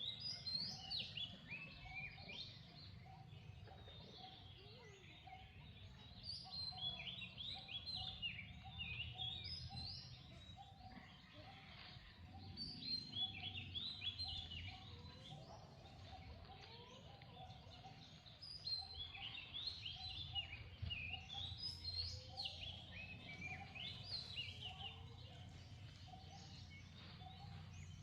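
Birds chirping and chattering in repeated bursts of short, high calls over a steady low background rumble.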